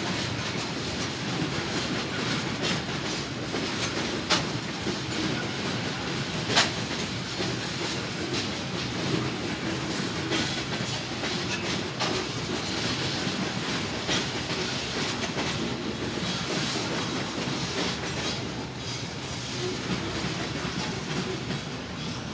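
Norfolk Southern freight train cars rolling past in a steady rumble, wheels clacking sharply over rail joints every few seconds.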